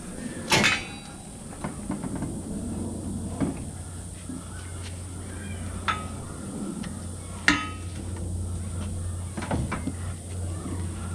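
Scrap metal clanking as pieces are loaded onto a pile: two loud ringing metal clangs, about half a second in and about seven and a half seconds in, with a smaller clang near six seconds and lighter knocks between, over a low steady hum.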